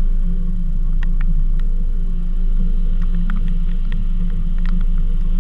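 Car engine idling, a steady low rumble carried through the camera mounted on the car body, with scattered raindrops ticking on the camera housing.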